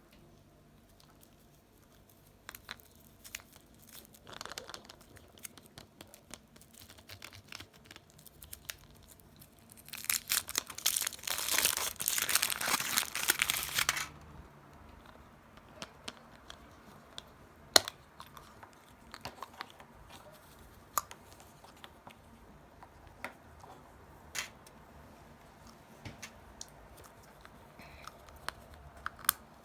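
Foil wrapper of a Kinder Surprise egg being crinkled and torn open, loudest in a dense burst of tearing about ten to fourteen seconds in. Scattered sharp clicks and taps follow.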